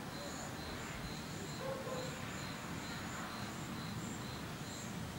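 Steady low rumble of storm wind, with a faint high chirp repeating a little over twice a second.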